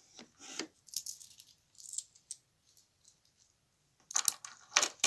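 Scattered clicks and clinks of small hard objects being handled, with a louder burst of rattling clatter about four seconds in.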